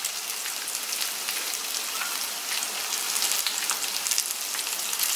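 Chicken-mince kababs shallow-frying in hot oil in a pan: a steady sizzle with many small crackles and pops.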